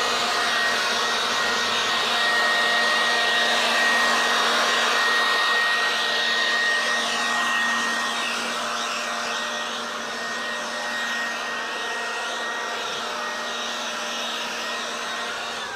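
Portable leaf blower running steadily, blasting water off a car's paint to dry it: a constant rush of air over a steady motor whine. Its pitch falls away as it shuts off at the very end.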